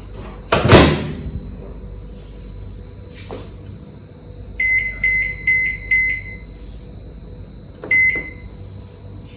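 A door shutting with a thump, then a microwave oven beeping five times in quick succession and once more about two seconds later.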